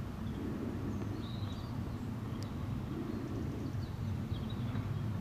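Outdoor ambience: a steady low rumble with faint, scattered high chirps of small birds.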